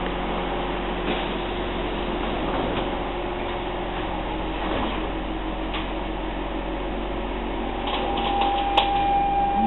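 Steady hum inside an SMRT C651 train car standing at a station as its doors slide shut, with scattered light clicks. Near the end a burst of clicks comes in and a steady mid-pitched tone starts.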